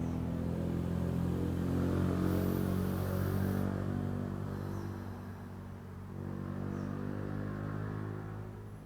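A motor vehicle's engine running, a steady low hum that grows louder over the first couple of seconds and then eases off, as if passing by.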